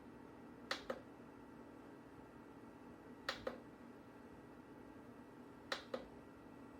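Small mini dehumidifier running with a faint steady hum, with a sharp double click three times, about every two and a half seconds.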